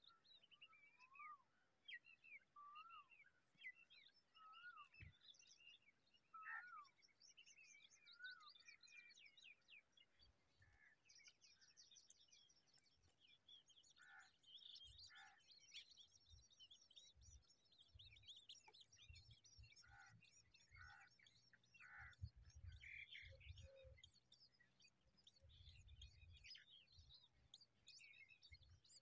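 Faint bird chirping from a nest of long-tailed birds: repeated short slurred calls at first, then from about ten seconds in a dense, rapid, high-pitched chatter of nestlings begging for food. Dull low thumps are mixed in during the second half.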